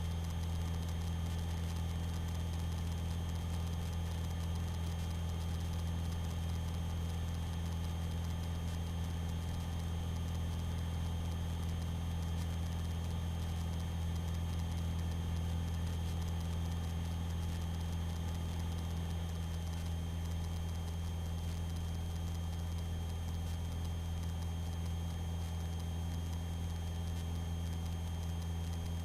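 Aerobatic aircraft's engine running steadily in level flight, heard from inside the cockpit as an even, unchanging low drone with a faint high whine above it.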